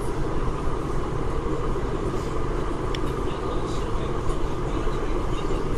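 Interior running noise of an eight-car West Rail Line electric train in motion, heard from inside the passenger car: a steady, dense rumble and rush.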